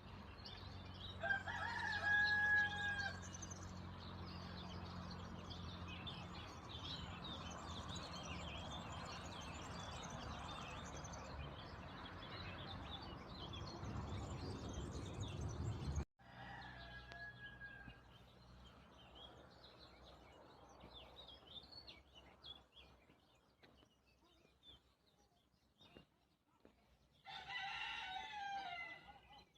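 A rooster crowing three times: about a second in, about halfway through, and loudest near the end. The continual chirping of small birds runs under it, with a low steady hum through the first half that cuts off abruptly.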